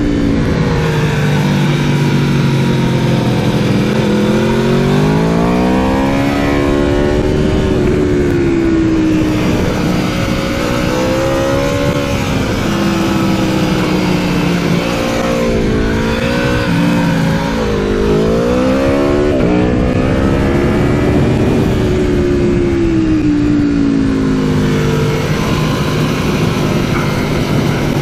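Aprilia Tuono V4 motorcycle's V4 engine heard onboard, revving hard through the gears on track: its pitch climbs and drops again and again as the rider accelerates and brakes, with several sharp drops in the middle.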